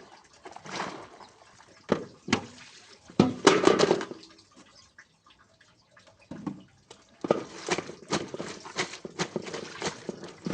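Horse hooves clopping as it walks: uneven knocks with a louder clatter a few seconds in, a pause, then a steady run of hoofbeats, about three a second, in the second half.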